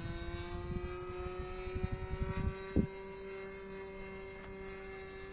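OS 55 nitro engine of a Tiger Sport 40 RC plane in flight, a steady whine that rises slightly in pitch. Low buffeting on the microphone in the first half ends in a short thump about three seconds in.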